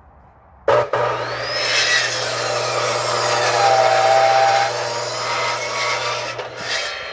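Electric saw cutting through firewood. It starts abruptly under a second in, with a steady motor hum beneath loud rasping cutting noise, and stops shortly before the end.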